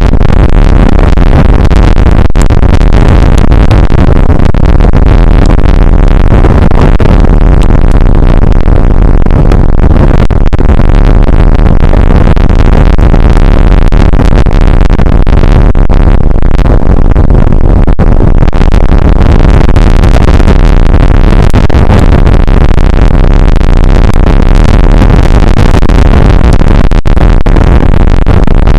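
Steady, heavily distorted noise overloading an outdoor weather camera's microphone in a rain shower, loudest in the low end and never letting up.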